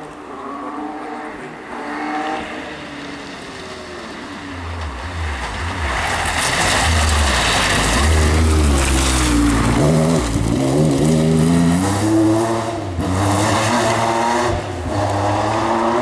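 Rally car engine coming up the stage at speed, revving up and down through the gears. It grows loud about a third of the way in and stays loud, with its pitch dipping and climbing again around the middle. There are short lifts off the throttle near the end.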